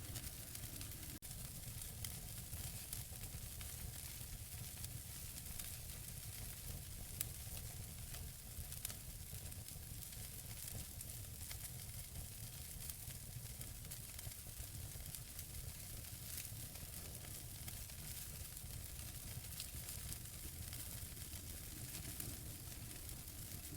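Wood fire burning in a fireplace: a steady hiss with scattered sharp crackles and pops from the burning logs.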